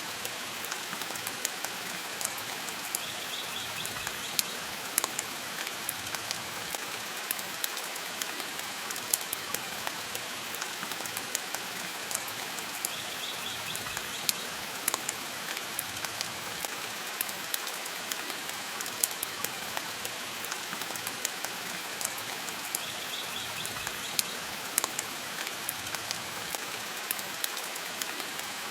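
Steady rain falling, heard as an even hiss, mixed with a wood fire in a fireplace giving scattered sharp crackles and pops.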